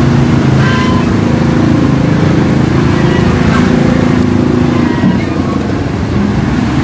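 An engine running steadily at a fairly constant pitch.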